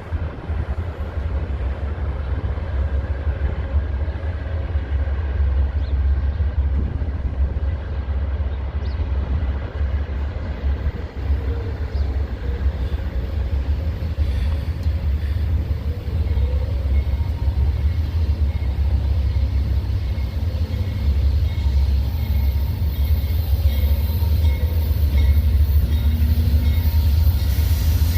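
Approaching Amtrak passenger train: a steady low rumble of its diesel locomotives that slowly grows louder as it draws near, with more hiss and rattle toward the end.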